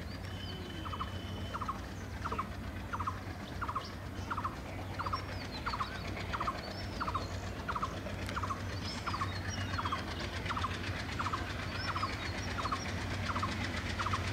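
A bird repeats a short two-part call about one and a half times a second, with other birds calling higher up now and then. Under it runs the low, steady drone of a diesel locomotive approaching in the distance.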